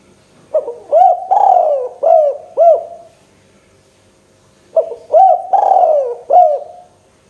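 Spotted dove (tekukur) cooing: two phrases of about five hooting notes each, the second phrase starting a little under five seconds in.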